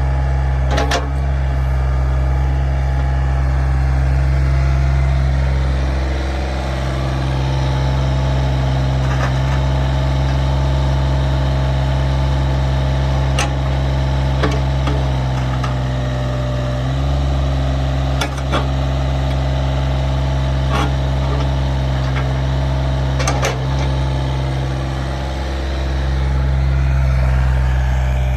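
Diesel engine of a Komatsu PC27MR-2 mini excavator running steadily, its note shifting slightly about two-thirds of the way through. A few sharp metallic clanks cut in over it.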